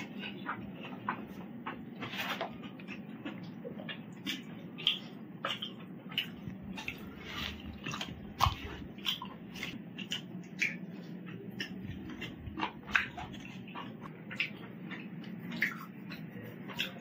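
Close-miked eating sounds: irregular wet clicks and lip-smacks of a man chewing food with his mouth, over a low steady hum.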